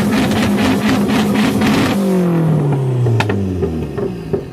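Car engine revved and held at high revs for about two seconds, then the revs fall away, with a couple of sharp pops from the exhaust as it drops.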